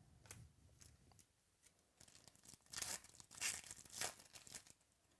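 A trading card pack wrapper being torn open and crinkled: a few faint handling ticks, then a run of loud rasping tears and crackles over the last three seconds or so.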